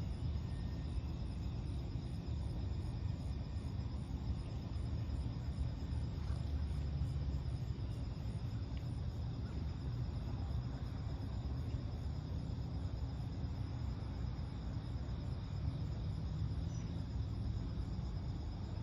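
Insects chirping in a steady, evenly repeating high-pitched pulse over a constant low rumble.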